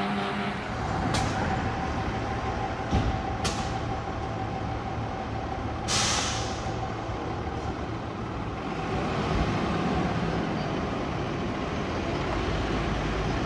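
Heavy truck's diesel engine running steadily, with three short hisses of air brakes, the last and longest about six seconds in.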